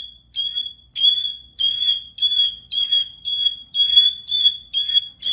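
A pet bird giving a repeated shrill, beeping call, about two a second, much like an alarm beeping.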